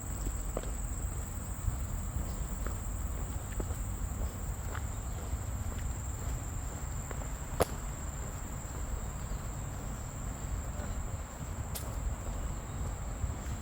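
A steady, high-pitched drone of insects, with faint footsteps about once a second and one sharp click about halfway through.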